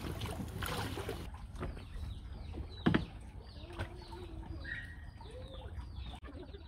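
Splashing water at first, then a bird calling in short, repeated falling chirps, with a single sharp knock about three seconds in.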